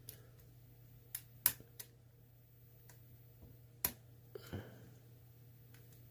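Faint, scattered clicks of a lock pick and tension tool working the spool pins of an ASSA Twin cylinder: about half a dozen sharp ticks, the strongest about a second and a half in and again near four seconds in.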